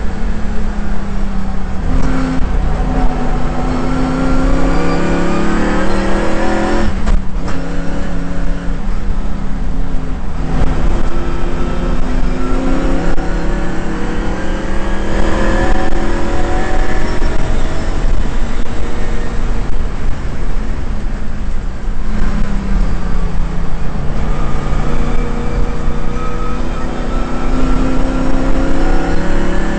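Shelby GT350's V8 engine heard from inside the car at racing speed. Revs climb through the gears with a sharp break at a gear change about seven seconds in, fall away over several seconds past the middle, then climb again near the end.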